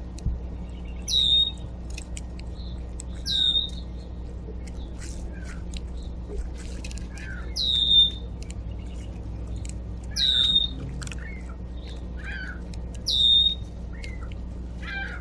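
A backyard songbird giving a short, high, squeaky call over and over, about every two to three seconds, with softer chirps from other birds in between.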